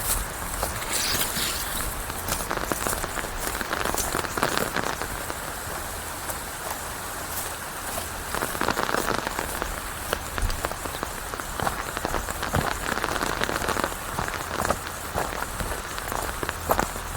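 Steady rain falling on leaves, with many separate drops pattering close by over a constant hiss.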